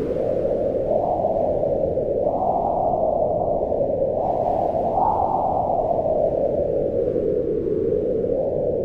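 Wind blowing steadily, a low moan whose pitch rises and falls slowly with the gusts, highest about five seconds in.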